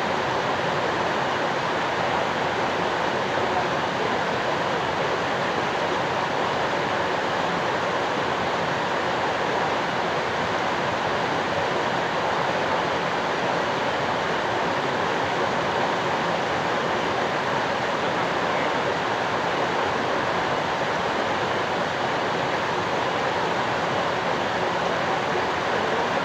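Steady rush of falling water, an even hiss that stays constant without a break.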